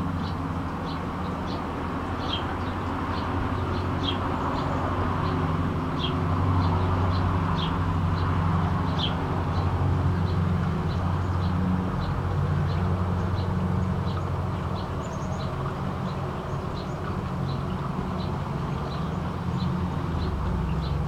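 Small birds chirping, short high chirps about twice a second, over a steady low hum.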